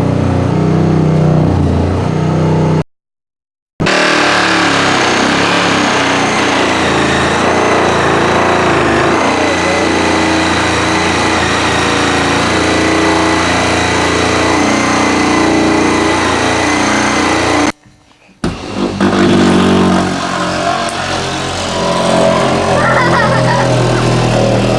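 Power saw cutting through a wall, its motor running steadily under load. The sound cuts off abruptly twice for about a second.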